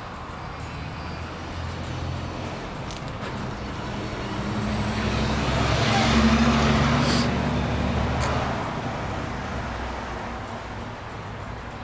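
An engine running with a steady low hum that swells to its loudest about six seconds in, then fades away.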